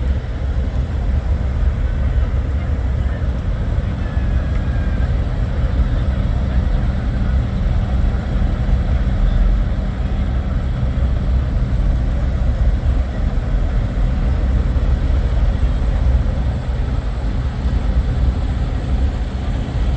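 Idling diesel semi-truck engines: a steady, loud low rumble.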